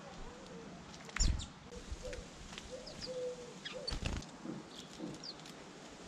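Small garden birds chirping with short, high, scattered calls around a seed feeder, with two low thumps, one about a second in and one about four seconds in.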